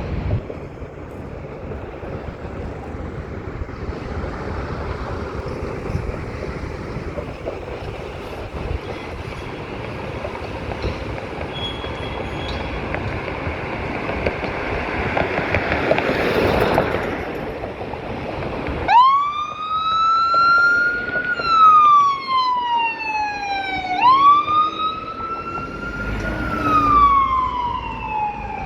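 Road and engine noise, then about two-thirds of the way through an emergency vehicle's siren comes on in a wail, each cycle rising quickly and falling slowly, about every five seconds.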